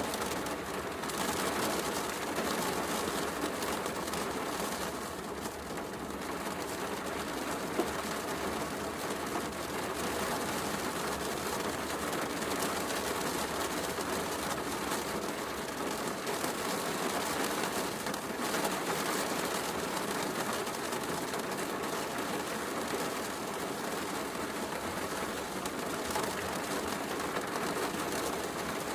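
Steady heavy rain mixed with a wood fire crackling in a fireplace, with one sharper pop about eight seconds in.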